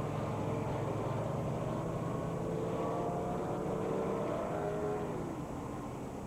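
Motorcycle engine running, rising in pitch for a couple of seconds, then dropping away about five seconds in.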